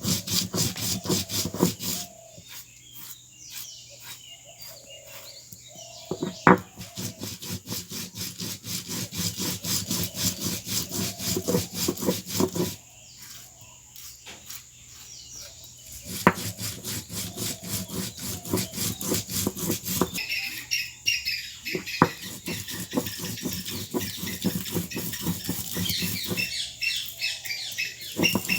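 Rapid, rhythmic scraping strokes, several a second, in runs of a few seconds broken by short pauses. Birds chirp during the later pauses.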